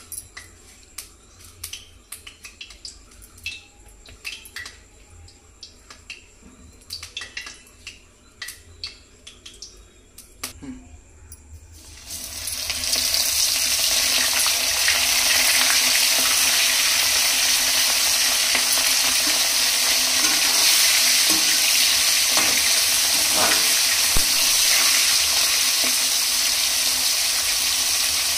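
Light clinks and taps of kitchen utensils on a pan for about twelve seconds, then a sudden loud, steady sizzle as food goes into hot oil and keeps frying.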